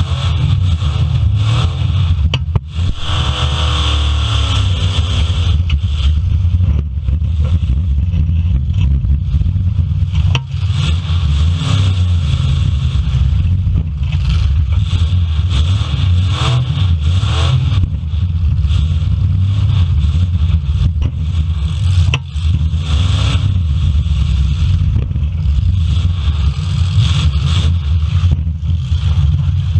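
Several full-size demolition derby cars running hard, their engines revving up and down over a heavy low rumble. A few sharp bangs cut in, about 3, 10 and 22 seconds in.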